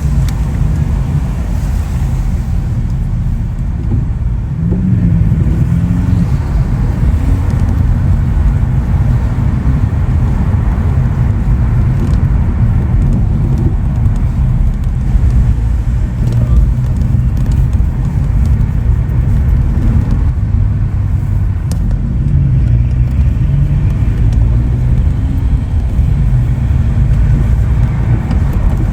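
Bugatti Chiron Sport's quad-turbocharged 8.0-litre W16 engine running on the move, a steady deep drone with small rises and falls in pitch and no hard revving.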